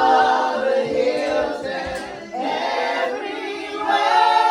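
A group of voices singing a hymn or carol together, holding long notes, with a short break for breath about two seconds in.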